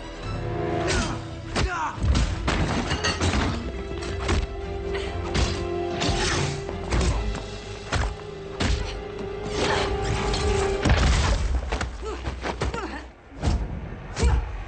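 Action-film fight soundtrack: tense music with a long held note, under a rapid series of hard hits, thuds and crashes, some with breaking glass.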